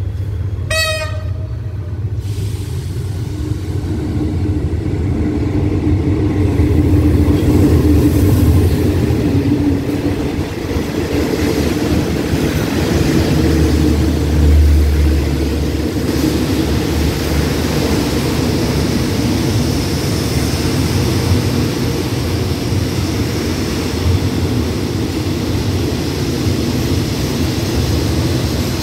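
A diesel-hauled express passenger train sounds a short horn toot about a second in, then rumbles in alongside the platform, its carriages' wheels rolling over the rails as it pulls into the station to stop.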